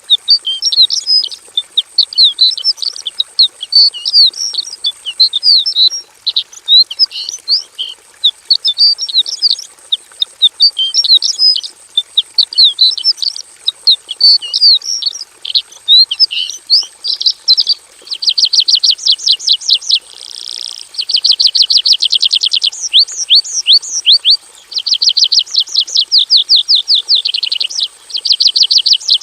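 Javan bush lark (branjangan) singing a loud, varied song of quick high chirps and sweeps packed with mimicked phrases, turning about two-thirds of the way through into fast, evenly repeated trills in runs of a few seconds.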